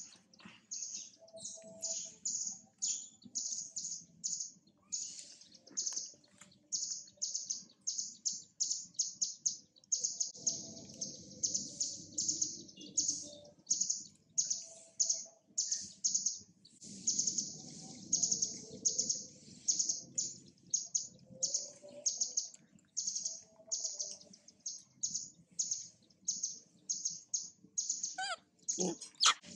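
A small bird chirping over and over, short high chirps at about two to three a second, with a faint low background hum.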